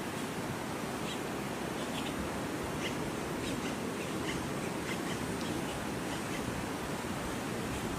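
Steady rush of fast-flowing floodwater, with birds chirping repeatedly over it.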